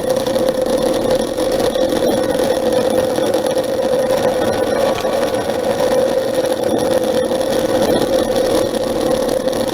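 A machine or motor running steadily with a constant mid-pitched hum.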